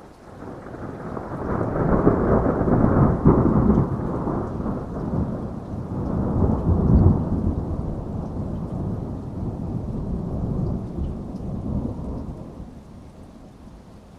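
A long rolling peal of thunder over steady heavy rain. It builds over the first two seconds, rumbles loudest about two and seven seconds in, then fades away near the end.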